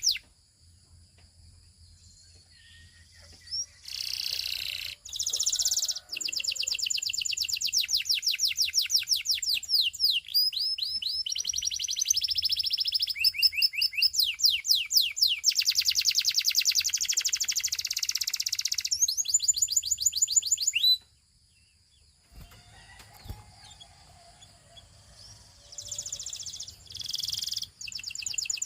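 Canary singing: a long song of rapid trills, phrase after phrase of fast repeated notes, breaking off about three quarters of the way through and starting again near the end.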